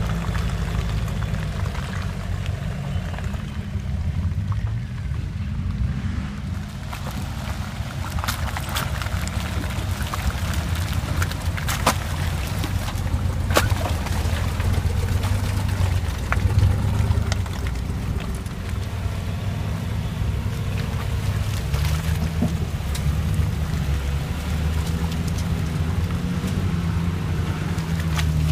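Off-road 4x4 engines running at low revs, the pitch rising and falling as the vehicles crawl through deep mud, with scattered clicks and knocks.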